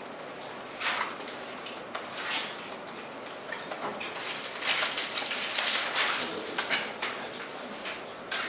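Scattered rustles, scrapes and clicks from people working at desks on laptops, denser about halfway through.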